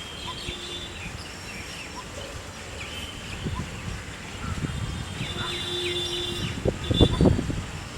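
Several small birds chirping and whistling in short calls, with a faint, spaced-out low note repeating underneath. In the second half, rustling and low thumps grow louder, peaking shortly before the end.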